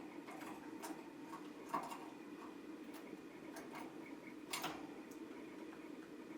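Small irregular clicks and taps, typical of a budgerigar's beak and claws working on its cage or perch, over a steady low hum, with two louder scratchy taps about two and four and a half seconds in.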